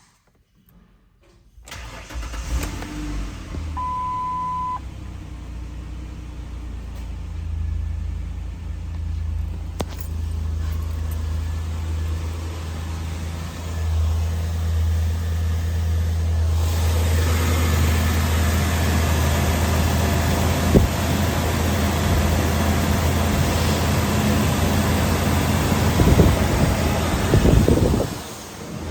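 A 2002 Ford Explorer's 4.0-litre V6 starts about two seconds in and settles into a steady idle. A short single-tone beep sounds about four seconds in. From about halfway the engine sound grows fuller and hissier.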